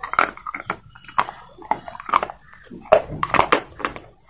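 Slate pencil bitten off and chewed, a run of irregular crisp crunches and clicks between the teeth.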